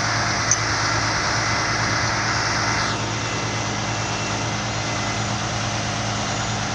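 Large truck engine idling steadily with a constant low hum, under a broad hiss that eases about three seconds in.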